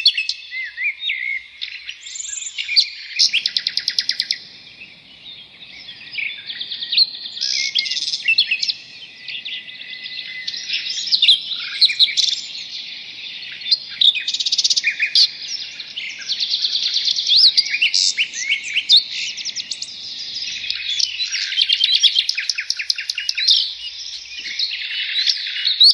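A dense chorus of songbirds: many overlapping chirps, fast trills and short whistles, with no single song standing out for long.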